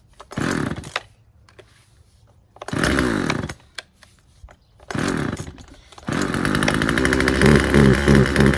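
Husqvarna 136 chainsaw's two-stroke engine being pull-started: three short bursts as the starter cord is pulled, then about six seconds in it catches and keeps running, its speed wavering. It is running a little off on the low-speed carburetor setting, which needs just a slight adjustment.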